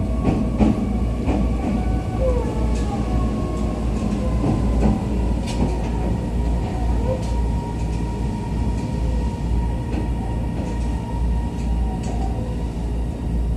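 Cabin noise of a JR East EV-E301 (ACCUM) battery-electric train running on the rails: a steady low rumble with scattered wheel clicks and brief squeals, over a thin motor whine that slowly falls in pitch as the train slows.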